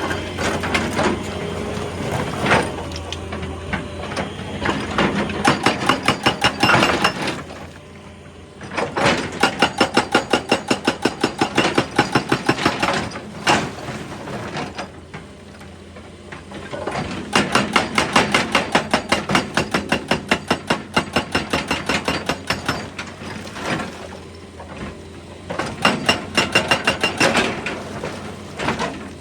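Excavator-mounted hydraulic breaker hammering rock in bursts of rapid, evenly spaced blows lasting a few seconds each, with short pauses between them, over the steady hum of the excavator's engine.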